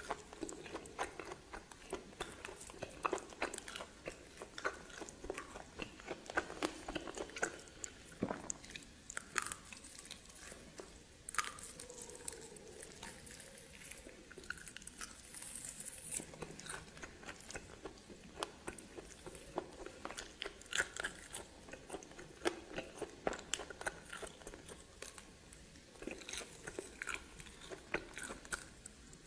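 Close-miked chewing and biting of steamed snake: irregular wet, crunchy mouth sounds with frequent sharp crackles.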